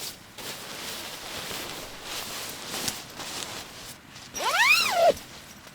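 Rustling of sleeping-bag fabric and gear being handled, then one short pitched call that rises and falls, about four and a half seconds in and louder than the rustling.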